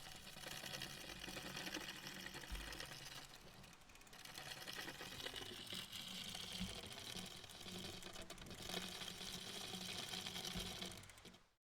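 A small machine running with a fast, even clatter, easing off briefly about four seconds in and stopping abruptly near the end.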